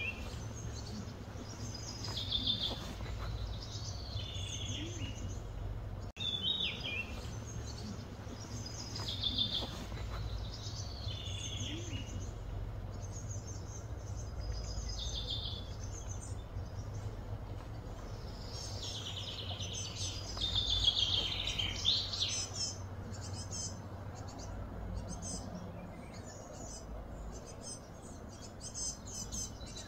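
Birds chirping in short repeated phrases over a steady low hum.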